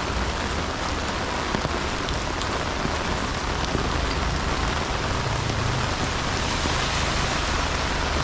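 Steady rain falling, an even hiss with scattered drop ticks over a low rumble.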